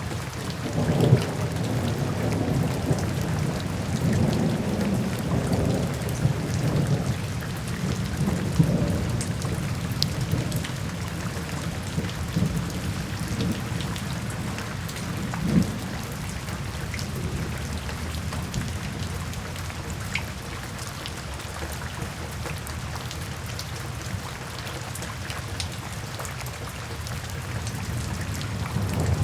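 Steady rain falling, with rolling thunder: low rumbling through the first third, a single louder thump around the middle, then a calmer stretch of rain before thunder builds again at the end.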